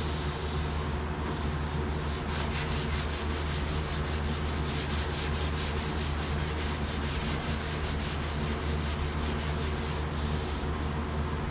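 Hand sanding of a truck cab's sheet-metal body with sandpaper, in quick, even back-and-forth strokes. A fan hums steadily underneath.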